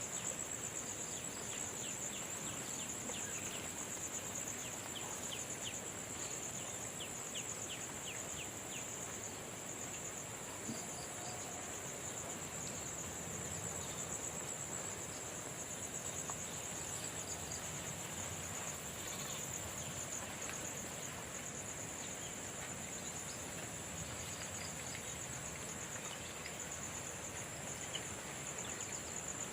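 Insects, crickets by the sound of it, trilling in a steady, high, continuous chorus over an even background hiss, with a run of faint quick ticks in the first several seconds.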